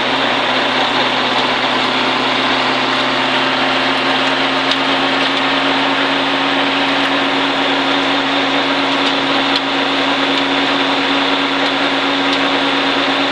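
Stock car's V8 engine running steadily at part throttle on a slow cool-down lap, heard from inside the cockpit as an unchanging drone.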